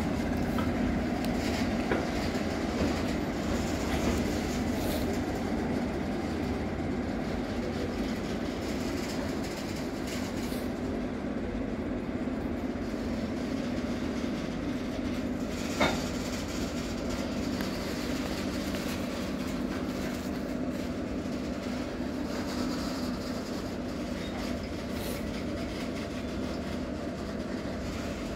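Freight train of hopper wagons running steadily past, with its wheels rolling on the rail throughout and one sharp metallic knock about halfway through.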